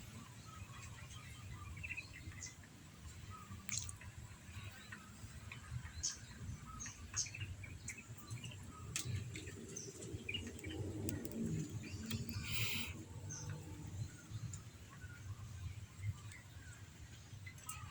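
Birds chirping: many short, scattered high chirps over a steady low background rumble, with a brief hiss about two-thirds of the way through.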